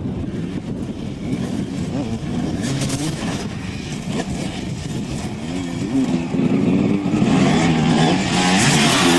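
Dirt bike engine revving up and down through the throttle, getting louder about two-thirds of the way through.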